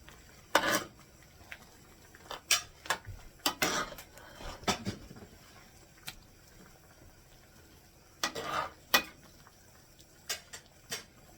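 A cooking utensil scraping and clinking against a skillet as mushroom sauce is spooned over chicken pieces, in short irregular strokes with pauses between.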